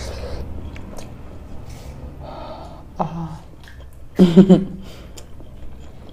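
Close-miked eating by hand: chewing and small mouth noises as rice is eaten with the fingers, under a low steady hum. A brief voiced murmur with the mouth full comes about three seconds in, and a louder one just after four seconds.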